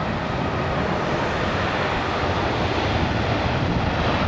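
Jet airliner engines running, a steady wide rushing noise that grows slightly louder toward the end.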